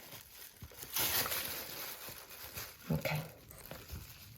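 Knife sawing and scraping through a cured Serrano ham, a rasping noise for about a second and a half, with a few light knocks of handling.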